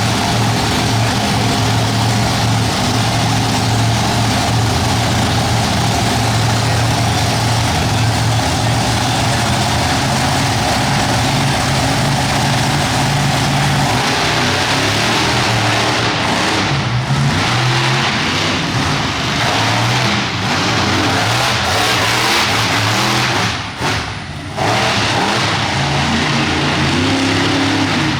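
Monster truck engine running loud and hard, held steady for the first half, then revving up and down, with a short throttle lift near the end.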